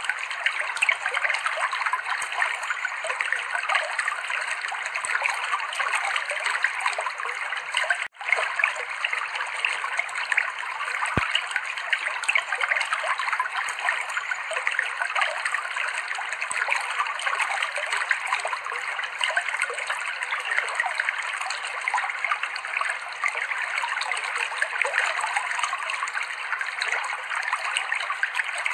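River water flowing and trickling over rocks: a steady rushing and splashing, with a momentary cut-out about eight seconds in.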